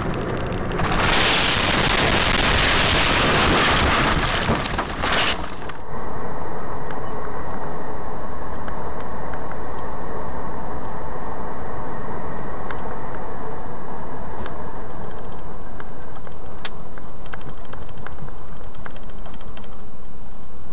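A car driving, recorded from inside: steady engine and road rumble. For about four seconds near the start, a loud rushing noise sits over it.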